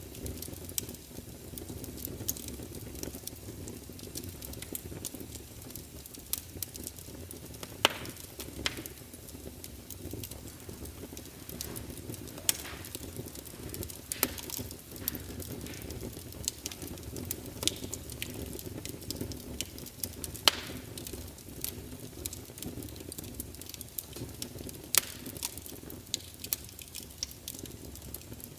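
Wood fire burning, a steady low rush of flames with irregular crackles throughout and a few louder sharp pops from the burning logs.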